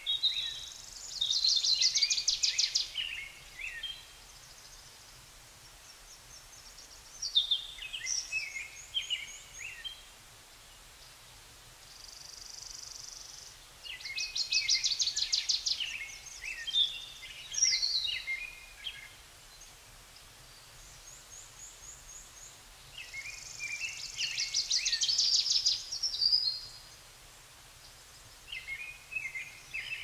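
A songbird singing in repeated bouts of high, rapid trills and quick falling notes, with a few seconds' pause between bouts, over faint steady background noise.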